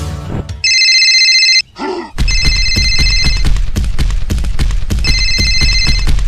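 Music cuts off at the start, then a bell rings three times in bursts of about a second, over a fast, continuous rattling clatter.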